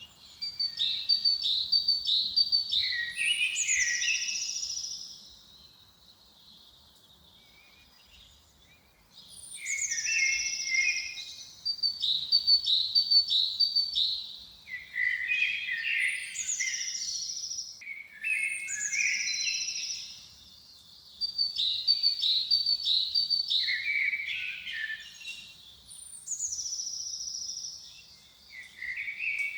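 A songbird singing a repeated phrase of quick high notes that drop in pitch and end in a high flourish, about six phrases separated by short pauses, with a longer pause near the start.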